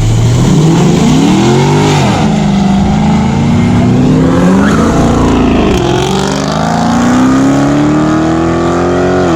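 A car engine accelerating hard as the car pulls away. Its note climbs and drops back sharply about 2 seconds in, again about 5 seconds in, then makes a long, slower climb before dropping once more at the end, as it shifts up through the gears.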